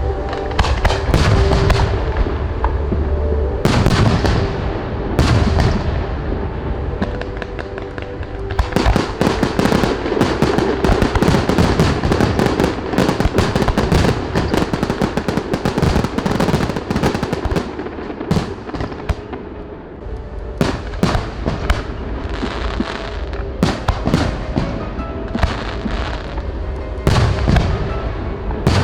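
Fireworks display going off: a fast run of bangs, deep booms and dense crackling, thickest in the middle, with music playing underneath.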